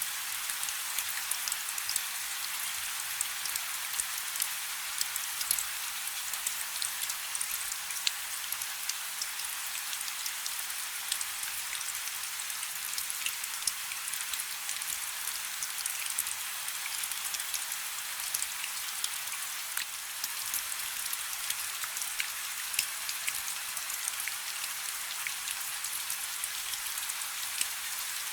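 Steady rain falling on a river: an even hiss, mostly high in pitch, with many small, sharp drop ticks scattered through it.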